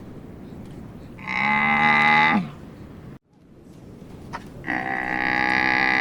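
Two long, steady mooing calls, like cattle lowing; the first ends in a short downward slide, and the sound cuts off abruptly between them.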